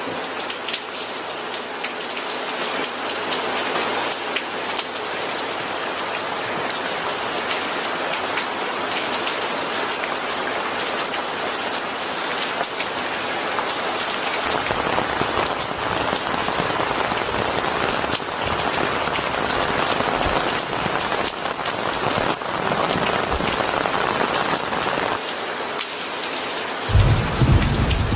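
Steady heavy rain pattering on a surface. A low rumble joins about halfway through, and a louder roll of thunder starts near the end.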